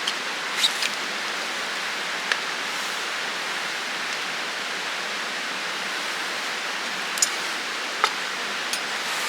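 Campfire burning with a steady hiss and a few sharp crackling pops, two near the start and a cluster near the end.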